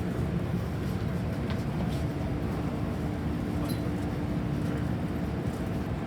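Steady low rumble inside an MTR M-Train carriage, with a steady hum joining about two and a half seconds in.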